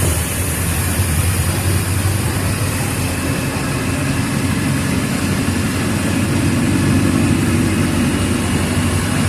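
Mercedes-Benz OF 1722M bus's diesel engine running steadily with a low hum, a little stronger from about three seconds in.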